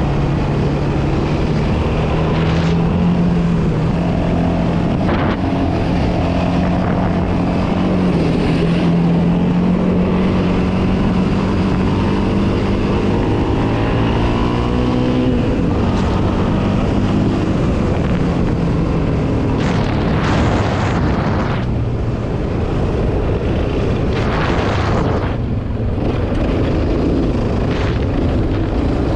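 Yamaha Raptor 700R quad's single-cylinder four-stroke engine running steadily under way, its pitch shifting around halfway as the throttle changes, with a few short bursts of rushing noise in the second half.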